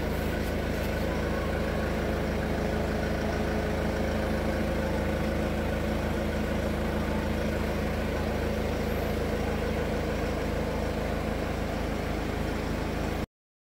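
A car engine idling steadily, a constant drone with no revving. It cuts off abruptly shortly before the end.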